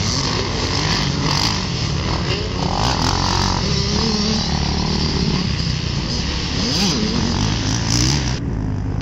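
Motocross dirt bike engines revving up and down as the bikes ride the track, over a steady background of engine noise.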